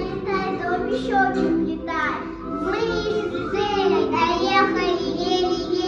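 A group of young children singing a Russian folk song together over music.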